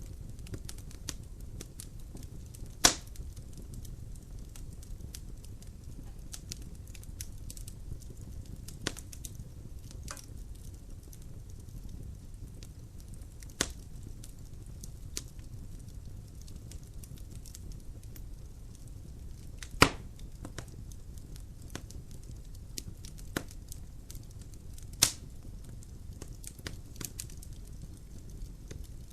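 Wood logs burning in a fireplace: a steady low rumble of the fire with scattered small crackles and snaps, and three sharp, loud pops about three seconds in, near twenty seconds and about twenty-five seconds in.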